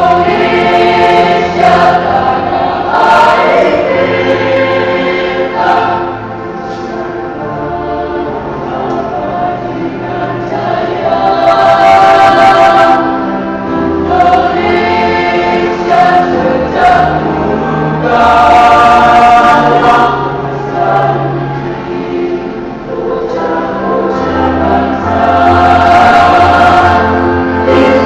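A high-school choir singing in several parts, long held chords that swell and fade several times, with low notes sounding under the upper voices.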